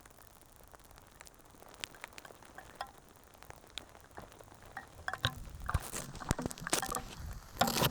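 Faint scattered taps and clicks over a low hiss, coming more often and louder from about five seconds in.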